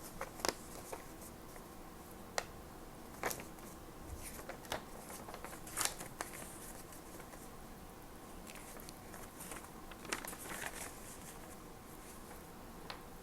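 Small stationery items being handled and packed into a toolbox: irregular light clicks and knocks, with a little paper and plastic rustling.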